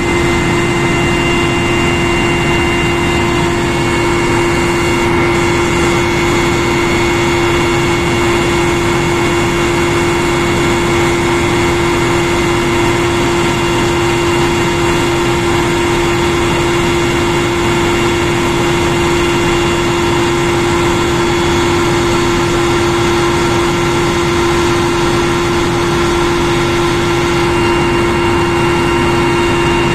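Military transport helicopter in cruising flight: a steady, loud drone of turbine engines and rotor with a strong steady whine and several fainter, higher steady tones running through it.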